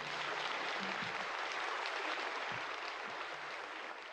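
Audience applauding: dense, steady clapping that starts right as the song ends and begins to fade near the end.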